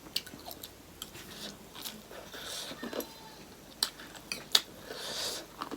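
Close-up eating sounds: chewing and biting, with scattered sharp mouth clicks and smacks.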